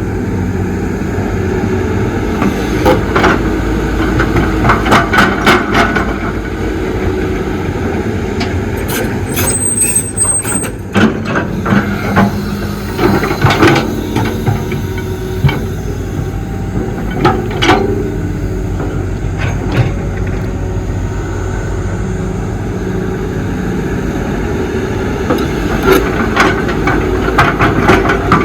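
Excavator digging dirt, its heavy diesel engine running steadily under load, with repeated metallic knocks and clanks from the bucket and digging. A brief high squeal comes about a third of the way through.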